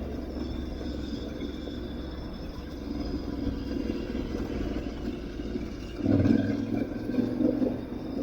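Aprilia Tuareg 660 parallel-twin motorcycle engine running under way off-road with a low rumble, getting louder about six seconds in as the throttle opens.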